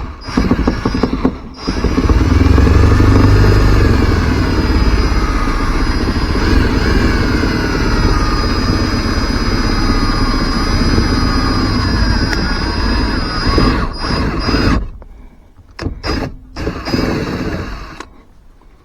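Power drill running under load, its whine wavering up and down in pitch, with brief breaks near the start. It stops abruptly about fifteen seconds in, followed by a few short bursts.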